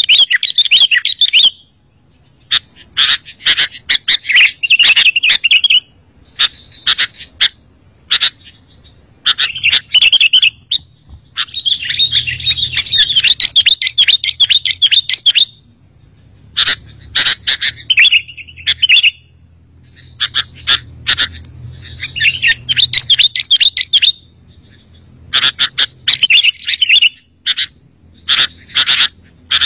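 Sooty-headed bulbul (kutilang) song: loud, rapid chirping and warbling phrases of one to three seconds each, repeated with short pauses between them.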